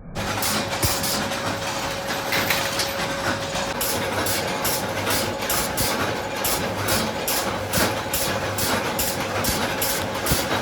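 Chain-factory machinery running with a steady hum and a regular clatter of strokes, about three a second.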